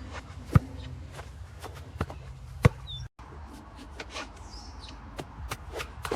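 Scattered sharp knocks and clicks over a low steady hum, two of them much louder than the rest, about half a second and about two and a half seconds in.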